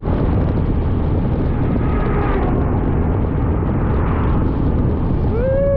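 Steady rush of wind on the microphone mixed with a motor scooter's running noise while riding. Near the end a brief tone rises and falls.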